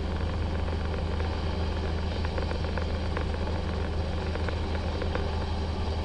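Steady low drone of an aircraft engine running at a constant speed.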